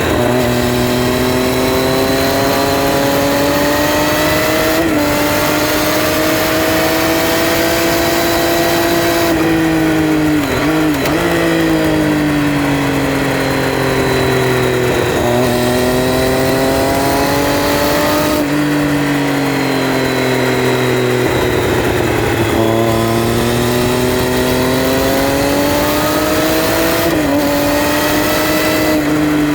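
Triumph Street Triple R's 675 cc three-cylinder engine under way on the road, its pitch climbing slowly and falling back several times as the revs change, with short dips and kinks between the climbs.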